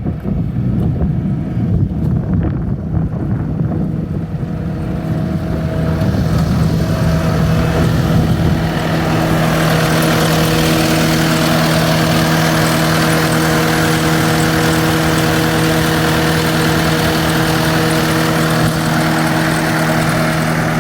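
Cat 3.8 turbo diesel engine of a compact track loader running. About six to nine seconds in its speed comes up, adding a steady hum and a rising rush, and it then holds steady at the higher speed.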